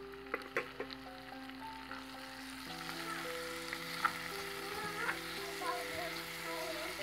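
Raw chicken pieces sizzling as they fry in hot oil with shallots, garlic and green chili in a pan, with a few sharp clicks near the start. The sizzle grows louder after a couple of seconds. Background music with long held notes plays throughout.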